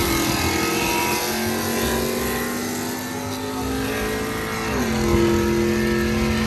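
Pickup truck engine held at high revs during a burnout, its pitch steady for several seconds and shifting briefly about five seconds in.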